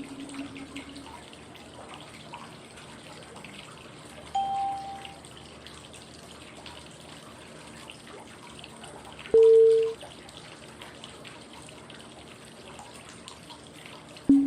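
Steady flowing-water white noise with a short chime-like cue tone every five seconds, marking the inhale, hold and exhale phases of 5-5-5 breathing. A higher tone comes about four seconds in, a lower and louder one about nine seconds in, and the lowest begins at the very end.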